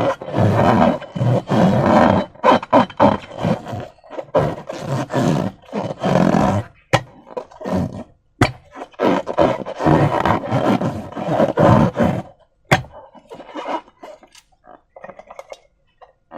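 Slime and transparent balloons being squeezed and worked by hand: irregular wet squelching and rubbery stretching, with a few sharp clicks. It turns quieter and more scattered for the last few seconds.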